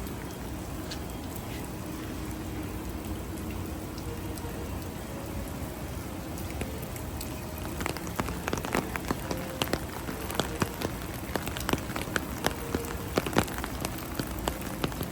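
Heavy rain falling with a steady hiss; from about halfway through, many sharp drops patter close by, growing denser toward the end.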